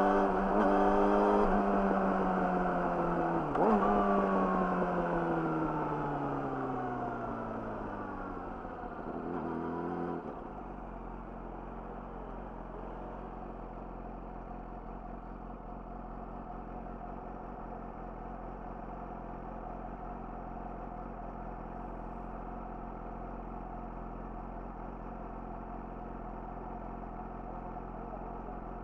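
Yamaha YZF-R6's inline-four engine through an Akrapovic slip-on exhaust, running under way with a sharp rise in revs about three and a half seconds in. The revs then fall steadily as the bike slows, and about ten seconds in it settles into a steady idle.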